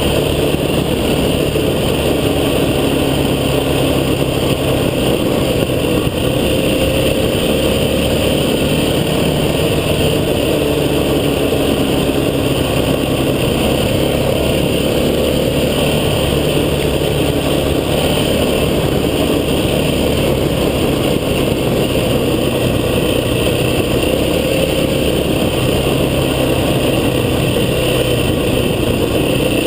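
Vehicle engine running continuously, its pitch wandering a little up and down, over a steady rumble of driving noise.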